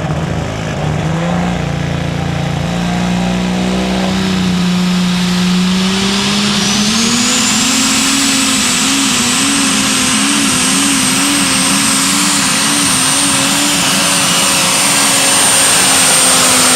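Light Super Stock pulling tractor's engine at full power under load during a pull, with a high turbocharger whine. The engine pitch steps up early on, climbs over a couple of seconds while the whine rises with it, then holds high with a regular waver.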